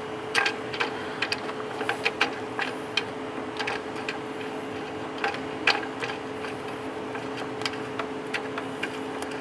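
Scattered metallic clicks and taps of hand tools as a new engine belt tensioner is fitted, irregular and a few each second, over a steady low hum.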